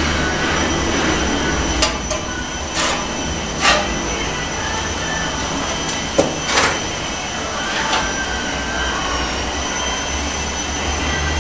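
A steady low mechanical hum with a thin high whine, broken by a handful of sharp knocks and clacks.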